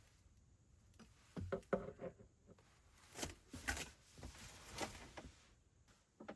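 A series of light knocks and rustling handling noises, bunched between about one and five and a half seconds in.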